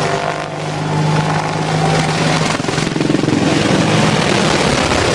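Loud, steady aircraft engine noise with a low hum running under it.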